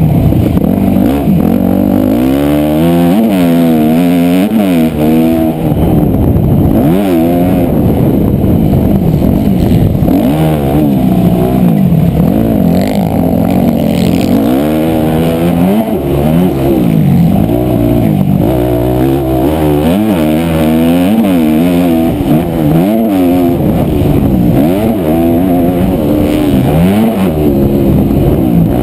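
Motocross dirt bike engine, loud and close, revving up and dropping back again and again as the throttle is opened and closed through the laps.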